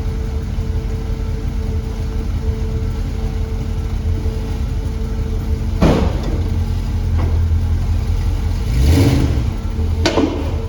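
Dodge 5.9 Magnum V8 idling through Hooker headers, Dynomax Turbo mufflers and Summit glass packs, a steady deep exhaust note. Brief louder moments come about six seconds and about nine seconds in.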